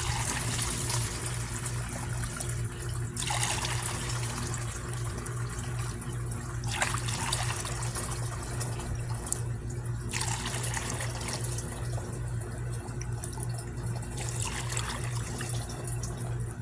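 Rainwater poured from a scoop through a flour sack cloth into a bucket, splashing in several pours one after another. A steady low hum runs underneath.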